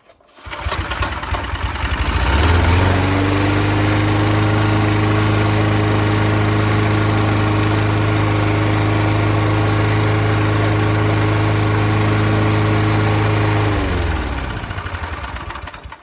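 Mountfield Empress 16 lawn mower's petrol engine pull-started, catching at once and revving up over a couple of seconds, then running steadily at full speed. Near the end it is shut off and winds down, falling in pitch until it stops.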